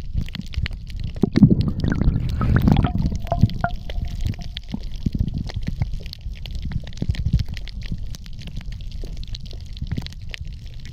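Water sound picked up by a submerged action camera: a steady low rumble with many small crackling clicks, and a louder stretch of water noise about one to three seconds in.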